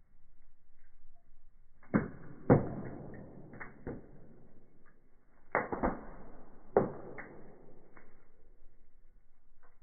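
Wood fire in a fireplace crackling, with a handful of sharp pops, the loudest about two and a half seconds in and around six to seven seconds in. It sounds muffled, with no high crackle.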